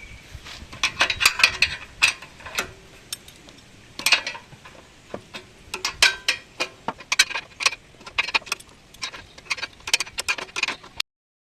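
Hand tools clicking and clinking on metal in irregular bursts as the exhaust's rusted mounting bolts are worked loose.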